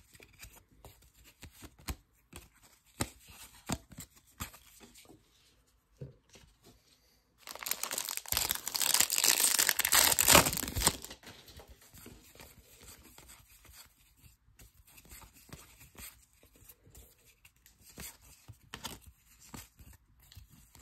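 A plastic trading-card pack wrapper being torn open and crinkled, loudest for a few seconds in the middle. Around it, soft scattered clicks and rustles of cards being handled.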